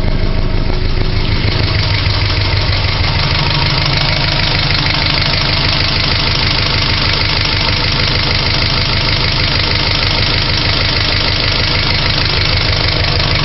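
Subaru EJ22 2.2-litre flat-four engine idling steadily, nearly up to operating temperature.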